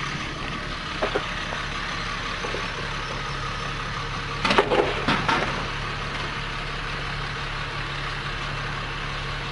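An engine idling steadily, with a short cluster of sharp knocks and clatter about four and a half seconds in.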